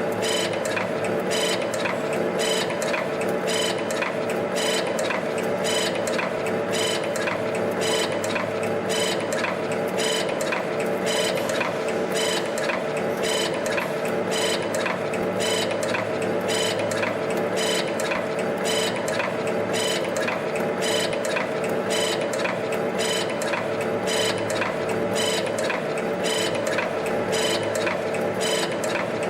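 CNC torsion spring forming machine running, winding and bending 0.6 mm wire into torsion springs: a steady motor and servo hum with a regular click a little over once a second as each forming cycle strikes.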